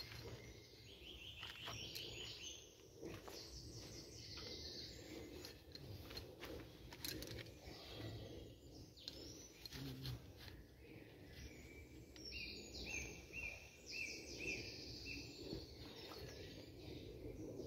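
Woodland birdsong: a bird sings a quick run of repeated chirping notes near the start and again about two-thirds of the way through, over faint steady outdoor background noise. Scattered faint clicks and scrapes come from hands working with a knife.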